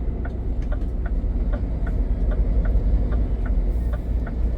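Scania truck's engine and road noise rumbling low inside the cab, with a regular light ticking about three times a second.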